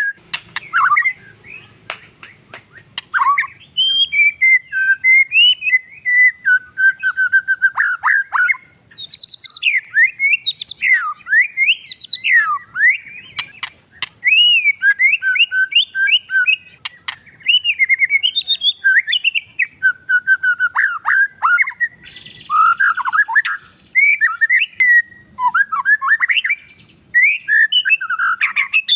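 Oriental magpie-robin (kacer) in full, continuous song: a long, varied run of loud whistled phrases, with notes sweeping quickly up and down and hardly a pause between phrases.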